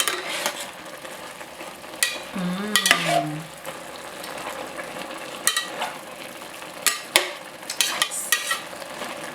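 Chicken pieces and mushrooms sizzling in a frying pan while a utensil stirs and turns them, knocking and scraping against the pan about ten times at irregular intervals.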